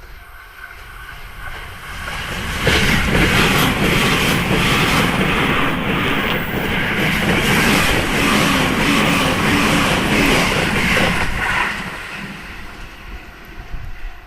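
E259 series Narita Express electric multiple unit passing at speed: wheel-on-rail noise swells about two seconds in, stays loud for around nine seconds with a rapid run of clicks, then fades.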